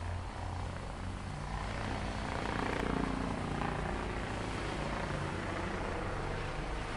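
Heavy diesel machinery of a paving site running with a steady low drone, swelling slightly about two to three seconds in.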